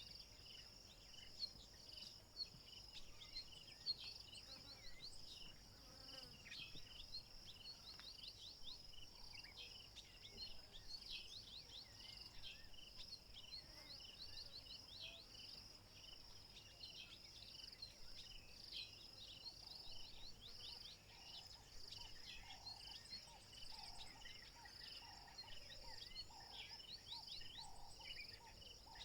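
Faint African bush ambience: a steady high-pitched drone of insects with many short, quick bird chirps over it. In the last third a lower call repeats at an even pace.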